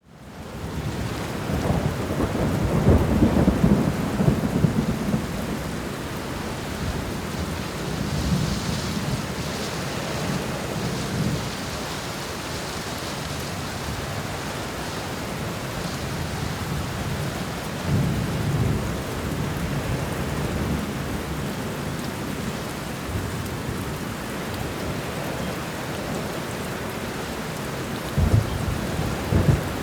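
Steady rain with rolling thunder, fading in at the start. A long low rumble comes in the first few seconds, then fainter rumbles about a third of the way in, around two-thirds through, and again near the end.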